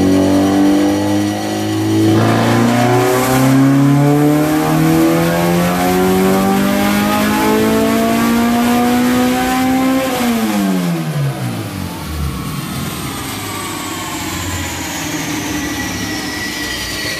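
Honda Civic's swapped K20A3 four-cylinder engine making a full-throttle pull on a chassis dyno: the revs climb steadily for about ten seconds, then the throttle closes and the revs fall away quickly. A faint high whine slides down as the car coasts down.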